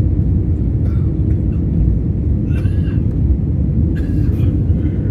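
Airliner cabin noise: a steady low rumble of engines and airflow, with faint brief voices about two and a half seconds in and again near the end.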